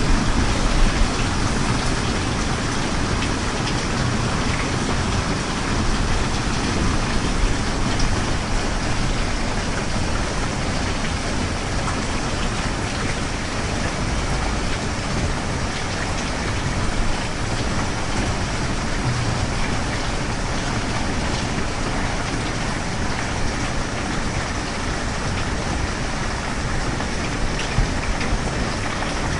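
Steady rain: a continuous, even hiss with a low rumble beneath it.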